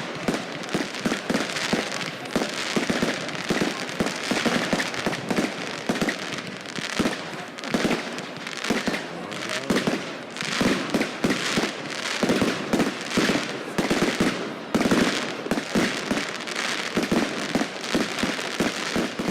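Fireworks going off in quick succession: a dense, continuous run of bangs and crackles, some bangs louder than the rest.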